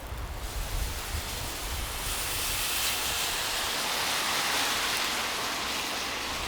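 A vehicle passing on a wet, slushy street: a tyre hiss swells to its loudest mid-way, then fades.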